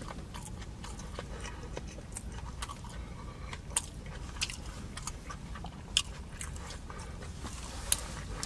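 Close-miked chewing of a mouthful of sushi burrito, with scattered sharp wet mouth clicks and smacks.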